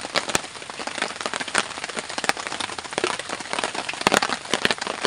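Vegetables sizzling and spattering in hot oil in a wok, just after being poured in: a dense crackle with frequent sharp pops.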